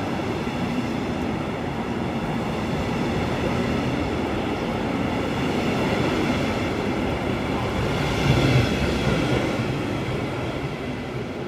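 Train running past a platform: a steady rumble of wheels on rail with several steady high tones over it, a brief louder surge about eight seconds in, fading near the end.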